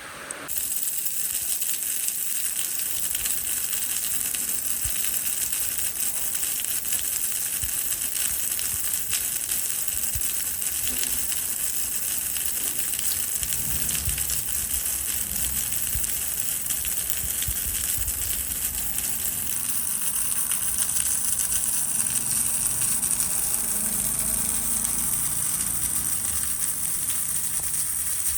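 Steady rain falling: a loud, even hiss that jumps up suddenly about half a second in.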